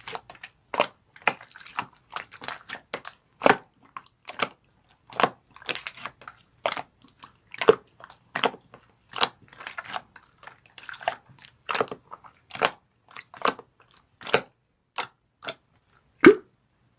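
A soft heart-glitter craft material being squeezed and pressed by hand, giving irregular crunchy, squishy pops and crackles, a few a second, with a louder pop near the end.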